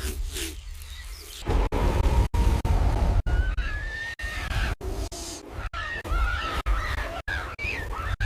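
Dramatic soundtrack of a deep steady rumble, with wavering high screeching cries like a bird's from about three seconds in, broken by brief dropouts every half second or so.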